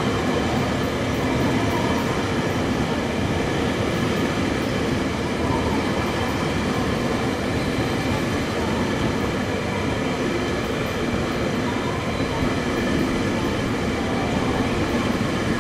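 Tobu N100 'SPACIA X' electric multiple unit cars, towed without their own power behind a locomotive, rolling past close by: a steady, continuous rumble of wheels on rails.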